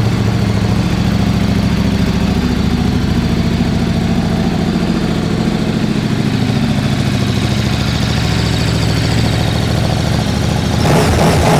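KTM RC8R's V-twin idling steadily through a full Akrapovič exhaust system, with a brief louder burst near the end.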